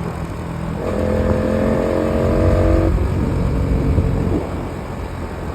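Bajaj Pulsar NS200's single-cylinder engine running while the motorcycle rides downhill. Its note holds steady, drops to a lower pitch about three seconds in, then fades.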